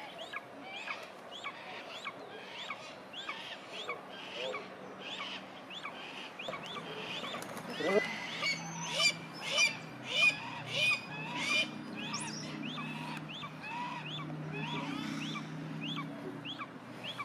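Bird calling repeatedly: a steady run of short, high chirps, two or three a second, with a louder string of about six calls about halfway through.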